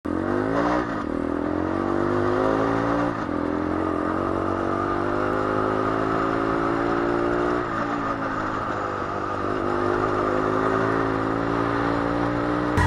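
Small motorcycle engine, a Gilera SMT with a swapped-in 125 cc engine, accelerating through the gears. The revs climb, drop at a gear change about three seconds in and again about eight seconds in, then climb again.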